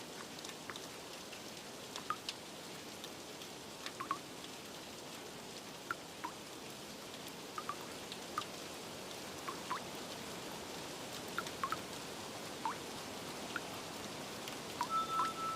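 Steady rain hiss with scattered water drips plinking at irregular intervals. A few soft melodic notes come in near the end.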